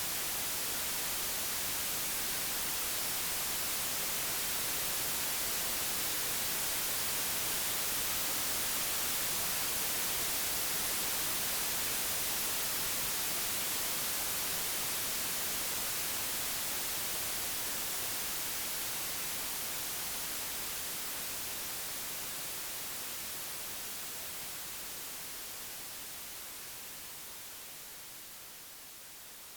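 Computer-generated white noise: a steady even hiss, strongest in the highs, that slowly fades in level over the second half.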